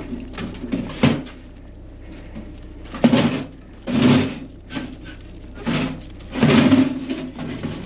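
Coals and ash being dumped and scraped out of a small hot-tent wood stove, heard as a series of about five short, harsh strokes.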